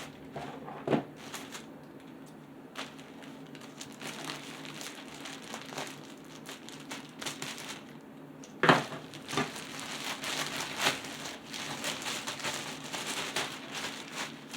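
Crinkling and crackling of a sealed mailer package being handled and pulled at while someone tries to open it, with scattered sharp crackles and a louder snap about nine seconds in, then denser crinkling.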